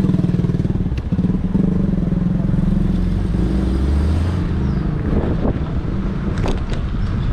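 Street traffic: a motor vehicle engine running close by at a steady pitch, with a deeper rumble swelling about halfway through and a few short clatters near the end.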